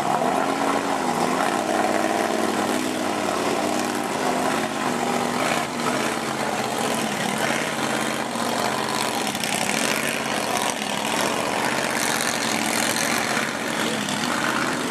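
Diesel truck engine revving, its pitch rising and falling several times over a steady rushing noise.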